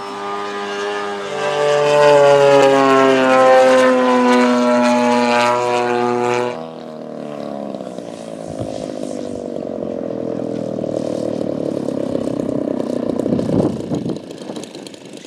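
Radio-controlled model airplane engines in flight. A loud, pitched engine note glides slowly in pitch and cuts off suddenly about six and a half seconds in. Then a rougher engine sound builds as a plane passes low and close near the end, and fades away.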